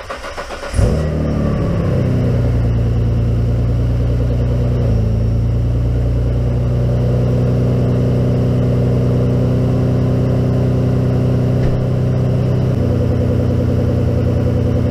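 Nissan RB26DETT twin-turbo inline-six in a Skyline GT-R cranking briefly, catching about a second in with a short rev flare, then settling into a steady idle. It is a cold start, the engine left idling to warm up before a compression and leak-down test, and the idle pitch shifts slightly a couple of times.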